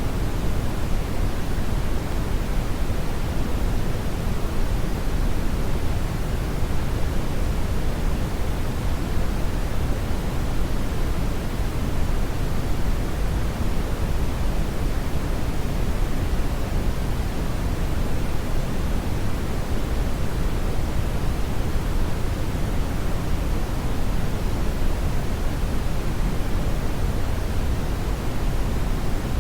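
Steady brown noise: an even, unbroken rumbling hiss weighted heavily toward the low end, with no changes.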